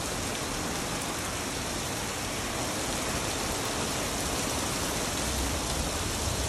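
Heavy rain pouring onto a concrete driveway and parked pickup trucks, a steady hiss.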